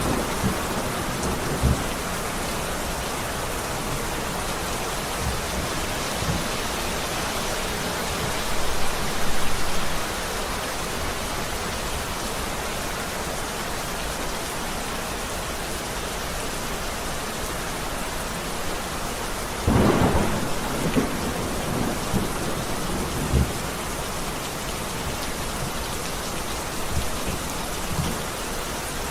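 Heavy rain falling steadily with thunder, which rumbles louder twice, about a third of the way in and again around two thirds of the way through.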